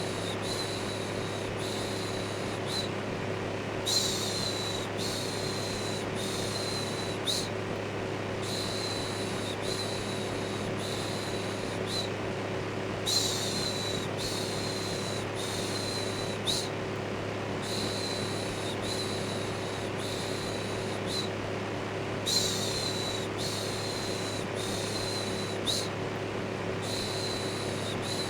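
Electric fan running with a steady whir and a low hum, overlaid by a repeated "shhh" shushing sound, about one second each, coming in runs with short pauses between them.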